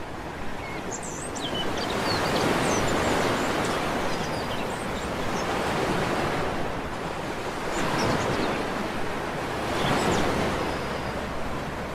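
Sea waves washing onto a beach, the surf swelling and easing every few seconds. Faint bird chirps come through, mostly in the first couple of seconds.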